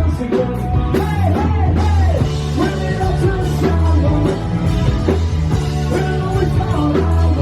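A live rock band playing a song without a break.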